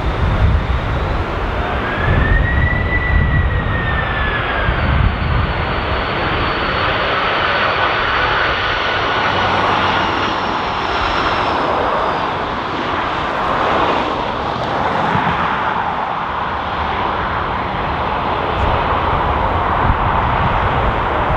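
Airbus A330-300 airliner passing on its landing approach: the jet engines' whine rises and then falls in pitch early on, over a steady broad engine noise. Gusty wind buffets the microphone throughout.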